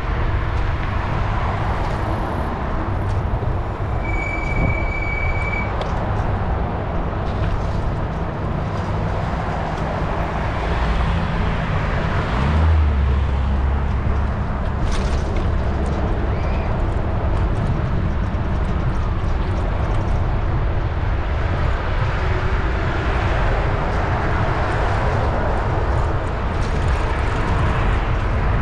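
Wind rumble and rolling noise from a moving bicycle, steady throughout, with a short high beep about four seconds in and a brief deeper rumble about halfway through.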